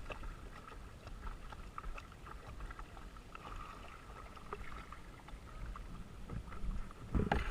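Quiet sounds of a kayak on a river: scattered small knocks and water sounds from paddling, over a low wind rumble on a helmet-mounted camera's microphone. The rumble grows louder near the end.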